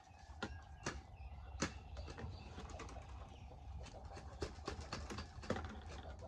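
Irregular sharp knocks and clicks, a few a second at times, over a low rumble.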